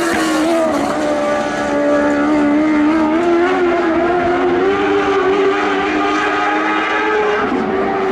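Lightning sprint car engine running at speed around a dirt oval, its high, steady note wavering slightly in pitch, with a second engine note overlapping for much of the time and shifting near the end.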